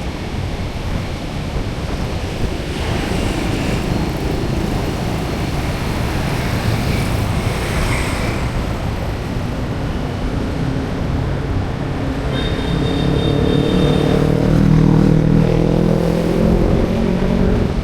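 Street traffic noise, with a motor vehicle's engine coming close in the second half. Its engine note is loudest about fifteen seconds in and drops slightly in pitch as it goes by.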